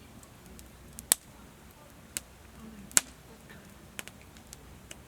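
Wood campfire crackling in a fire pit: sharp single pops about once a second, the loudest about three seconds in, over a faint steady hiss.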